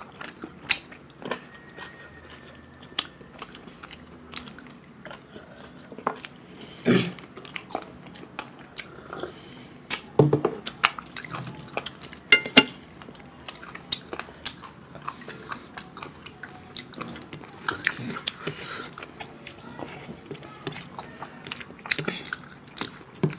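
Two people chewing and biting chicken curry on the bone, eaten by hand: close, wet chewing with irregular crunches and sharp clicks of fingers and food against steel plates.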